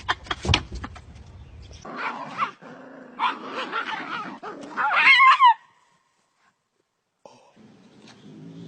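Pet animal calls, short gliding yelps and whines that are loudest about five seconds in, then cut off suddenly.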